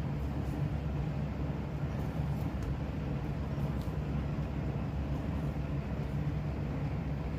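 Steady low hum of a running machine or background noise, with a few faint light taps.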